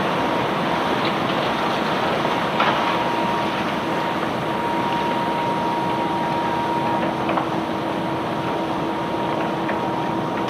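Unloading machinery running steadily, with a constant whine and a few sharp knocks now and then.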